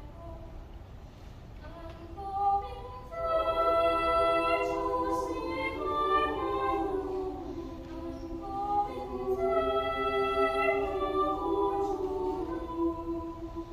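Children's choir singing a cappella, holding sustained chords in several parts. The singing is soft at first and grows fuller and louder about three seconds in.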